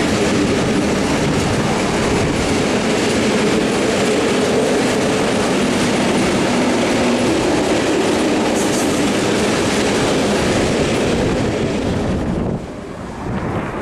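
A train passing close by, its wheels clattering over the rails with a loud, steady rumble. The noise drops off sharply near the end.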